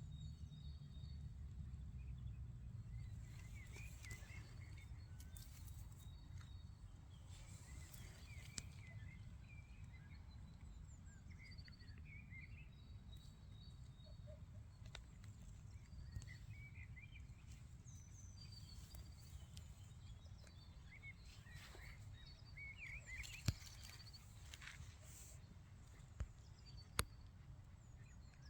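Faint woodland ambience: scattered chirps of small songbirds over a low rumble of wind. There are a few sharp clicks, the loudest about two-thirds of the way through.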